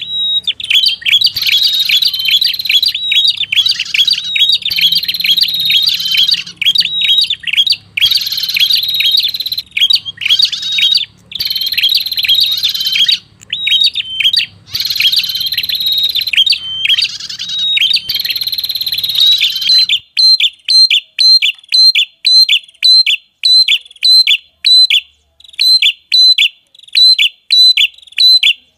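Looped lure recording of a prenjak kepala merah (a small warbler-like songbird) calling: high, rapid trilled chirping phrases, each a second or two long, over a faint low hum. About two-thirds of the way through the pattern changes to a clean series of short sharp chirps, about two a second.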